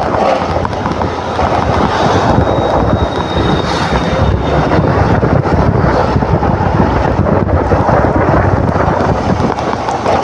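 Wind buffeting the microphone over a motor scooter's engine while riding.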